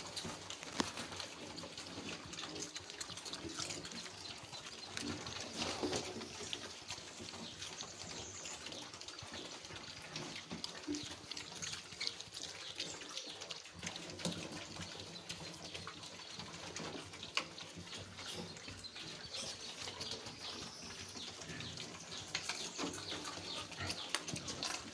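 Pigs in a pen: a few faint, short grunts and squeals over a steady hiss, with scattered small clicks and rustles.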